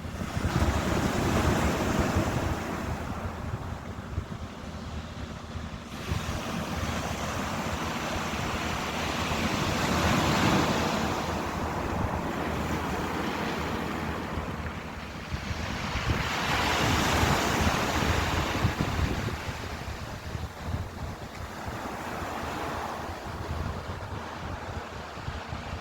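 Ocean waves breaking and washing in, the surf rising and falling in about four slow surges, the loudest around the middle and two-thirds of the way through, with wind rumbling on the microphone.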